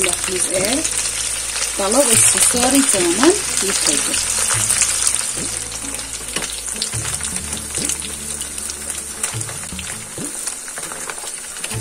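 Paneer slabs shallow-frying in hot oil in a nonstick wok, a steady sizzle full of fine crackles, with scrapes of a perforated metal skimmer as the pieces are turned.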